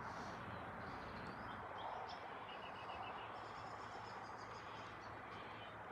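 Faint bird calls, including a short run of quick chirps about two and a half seconds in, over steady outdoor background noise.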